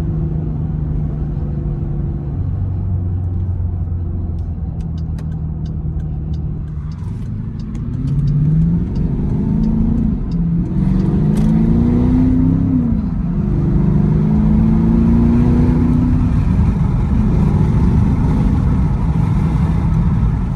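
2017 Dodge Durango R/T's 5.7-litre Hemi V8 through an X-pipe with the rear mufflers deleted, running at a steady pace, then growing louder about eight seconds in as it accelerates, its pitch rising and dropping back several times as it pulls through the gears.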